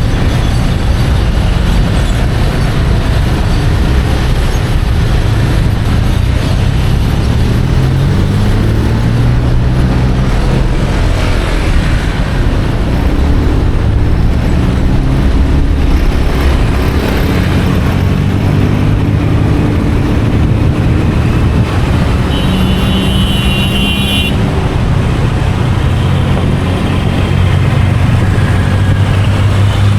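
Motorcycle engine running under way, its pitch climbing and dropping again and again as the rider works the throttle and gears, amid city traffic. About three-quarters of the way through, a high steady tone sounds for about two seconds.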